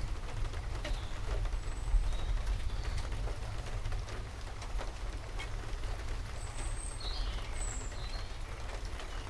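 Steady rain with scattered drop ticks over a strong low steady rumble, and birds giving short high chirps now and then, several of them near the end.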